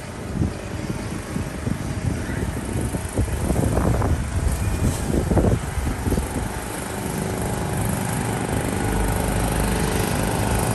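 Street noise with a motor engine running steadily, and a few faint voices in the middle.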